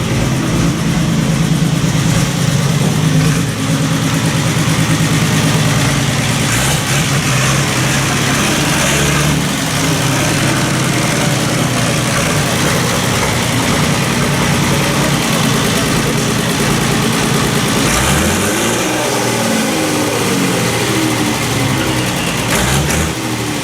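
Tractor engines running steadily. About three-quarters of the way through, one engine's pitch rises and falls several times.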